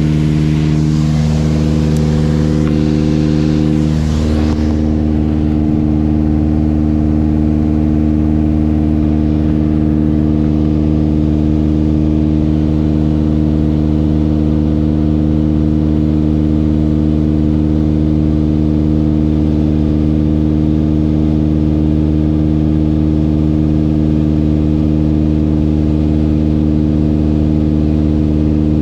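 Mooney M20J's four-cylinder Lycoming engine and propeller droning steadily in flight, with a rushing hiss on top that cuts out about four seconds in.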